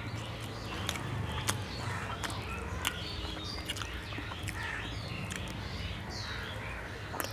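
Close eating sounds of pizza being chewed: irregular sharp mouth clicks and smacks, with birds chirping in the background.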